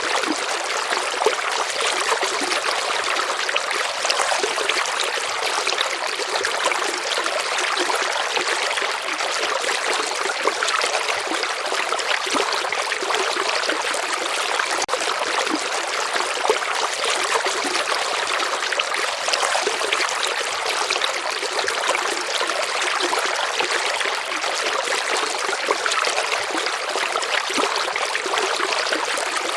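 A stream of water flowing and trickling steadily, a continuous even rush without pauses.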